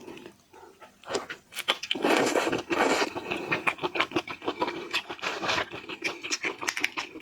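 Close-up eating sounds of a large shrimp: rapid clicks and crackling of shell and flesh being pulled apart and chewed, densest in the middle.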